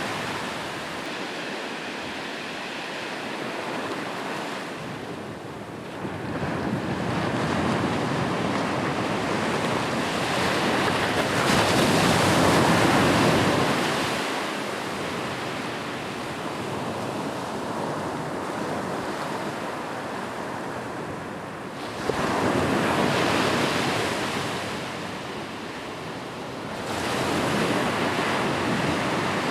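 Ocean waves breaking on a beach, the surf swelling and washing back in slow surges several seconds apart, with some wind.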